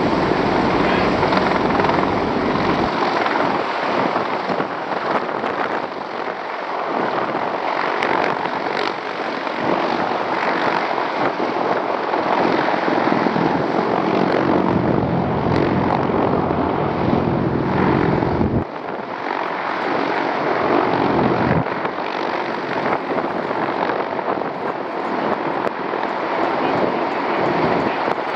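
Aircraft engine noise, a loud steady rush that shifts abruptly a few times.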